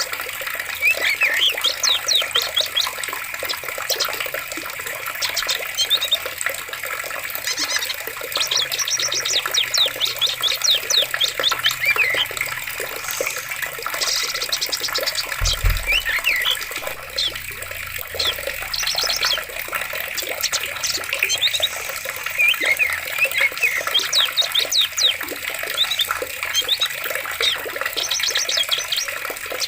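Running water with a steady rush, with several birds chirping and giving quick trills over it. There is one brief low thud about halfway through.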